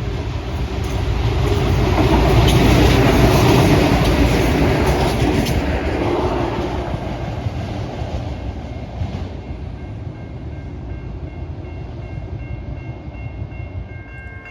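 Diesel railcar passing close by, its rumble and wheel noise swelling to a peak a few seconds in and then fading as it moves away, with a few wheel clicks over rail joints.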